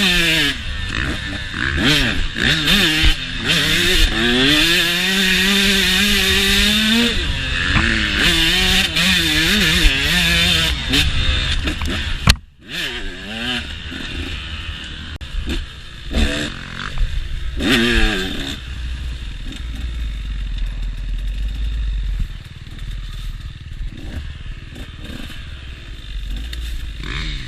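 KTM motocross bike engine being ridden, its revs rising and falling repeatedly through the first half. The sound cuts out briefly about twelve seconds in, then the engine runs quieter and lower for the rest, with a few short rev rises.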